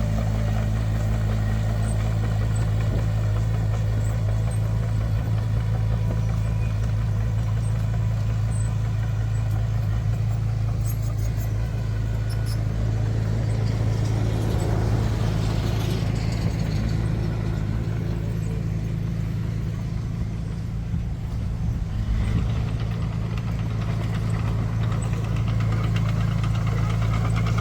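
Heavy diesel engine of earthmoving machinery running steadily, easing a little about twenty seconds in and picking up again shortly after.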